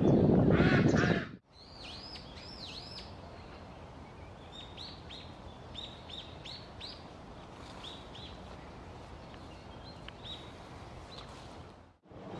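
A small songbird giving short, thin, high chirps in small clusters over a steady outdoor hiss. The first second and a half holds a loud rush of noise that ends in an abrupt cut.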